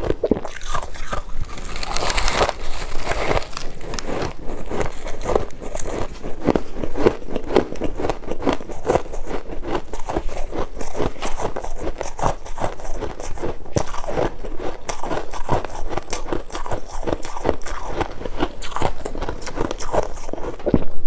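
Close-up crunching of freezer frost chunks being bitten and chewed: a dense, irregular run of crisp crunches, with a louder bite about two seconds in.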